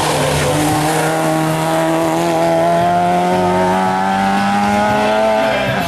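Race car engine held at full throttle, its pitch climbing steadily as it accelerates, then dropping abruptly near the end.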